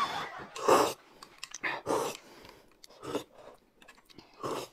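A person eating at the table: about five short, separate chewing sounds spread over a few seconds.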